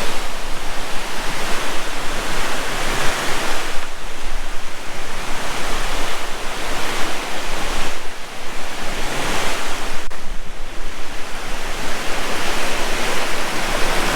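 Thooval waterfall pouring down with force, swollen by rain: a loud, steady rush of falling water that swells and eases every few seconds.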